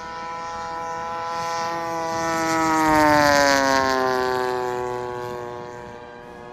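RC Spitfire Mk.XIV's engine and propeller on a fly-by: the engine note grows louder, peaks about three seconds in, then drops in pitch as the plane passes and fades away.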